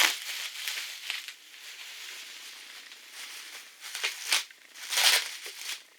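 Packing material rustling and crinkling as it is handled during unpacking, with a sharp crinkle at the start, another about four seconds in, and the loudest about five seconds in.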